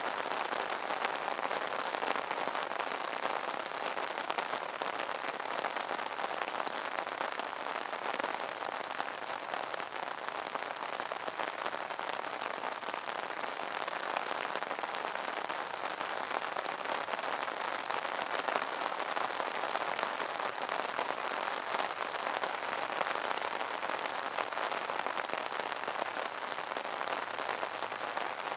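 Steady rain pattering on an umbrella canopy: a dense, even hiss of many small drop taps.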